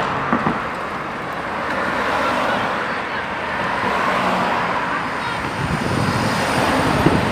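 Road traffic noise: cars passing along a street, the noise swelling and fading a few times.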